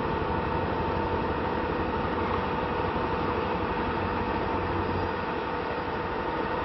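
Steady, loud running noise of a vehicle, with a constant high whine over it, starting abruptly.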